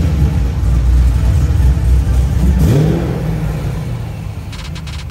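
Chevrolet Camaro Z28's 7.0-litre V8 running, its revs rising about two and a half seconds in, then growing quieter toward the end.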